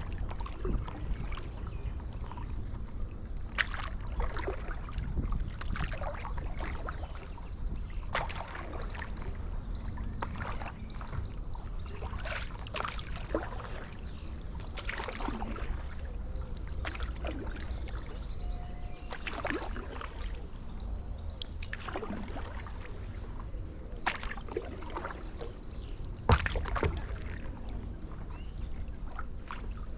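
Paddle strokes from a stand-up paddleboard dipping and splashing in canal water every couple of seconds, over a steady low wind rumble. A few short high bird chirps come in the second half.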